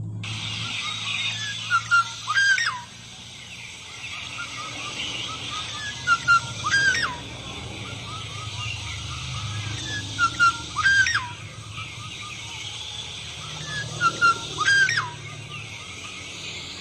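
A bird whistling the same phrase four times at even intervals, each time two short notes followed by a loud downward-slurred whistle, over steady high chirping in the background.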